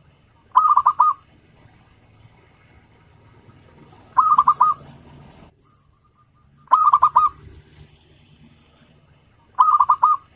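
Zebra dove (perkutut) cooing: four short phrases, each a quick run of clipped notes at one pitch, coming every two to three seconds.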